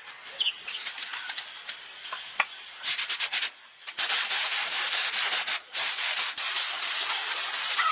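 A loud hiss of a pressurised jet: a short pulsing burst about three seconds in, then a long steady stretch from about four seconds on, broken once briefly.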